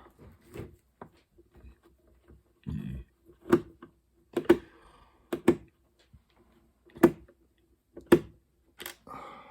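Scattered sharp clicks and knocks from handling the external floppy drive and removing the screws on its bottom: about a dozen separate taps, several with a short ring.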